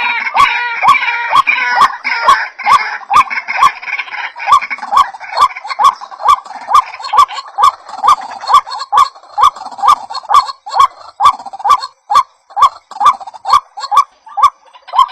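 White-breasted waterhen calls from a bird-lure recording: the same short hooked note repeated about two and a half times a second, each with a sharp click. For the first few seconds a higher, busier chatter of further waterhen calls runs underneath, then fades out.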